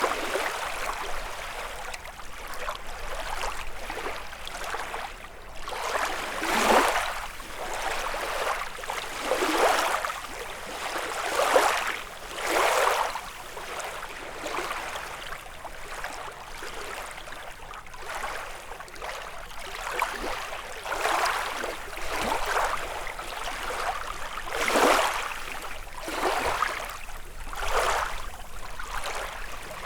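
Small lake waves lapping and breaking on the shore, each one a short wash that swells and fades, arriving irregularly every one to three seconds with some louder than others.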